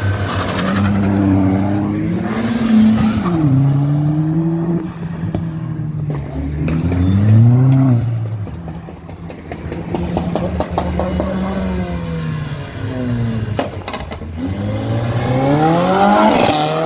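Several cars accelerating past one after another, their engines revving up and dropping back through the gears, with a strong rising rev near the end.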